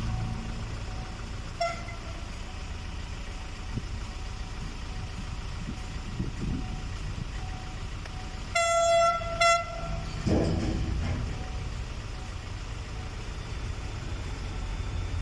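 Diesel freight train running past with a steady low rumble; the locomotive's horn sounds twice about eight and a half seconds in, the second blast shorter.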